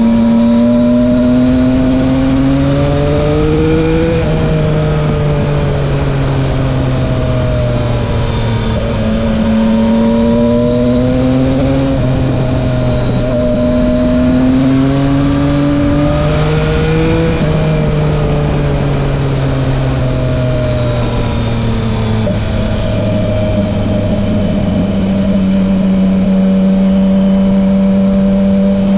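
Yamaha Tracer 900 GT motorcycle's inline-three engine, through a loud SC-Project aftermarket exhaust, pulling up through the revs with a sudden pitch drop at two gear changes. It eases off, then holds a steady note at cruising speed for the last several seconds.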